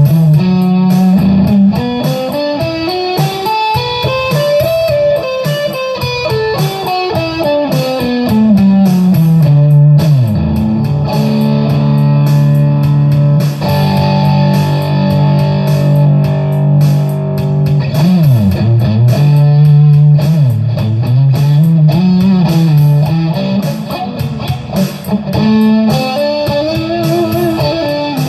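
Electric guitar playing an improvised lead, working through a Dorian scale: a long run climbs for the first few seconds and falls back, with low notes ringing underneath.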